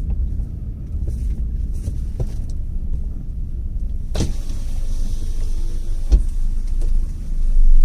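Car running on the road, heard from inside the cabin as a steady low rumble. About four seconds in comes a sharp click, then a short faint whine, ending in another click about two seconds later.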